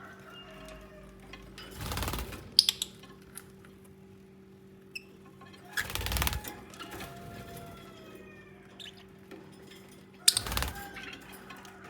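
Lovebirds making soft, short gliding chirps, several of them falling in pitch, broken by three brief bursts of rustling and a few sharp clicks. A faint steady electrical hum runs underneath.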